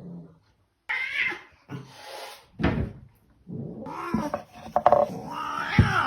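A cat meowing and yowling in a run of calls: three short ones, then a longer, busier stretch from about three and a half seconds in.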